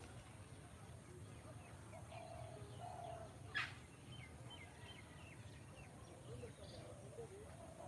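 Faint birds calling: short low notes that come in pairs, a sharp high chirp about three and a half seconds in, and a quick run of thin high chirps just after it, over a faint low rumble.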